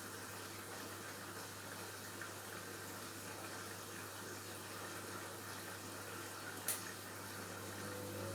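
Washing machine taking in water: a faint steady rush of water over a constant low hum, with one short sharp click near the end.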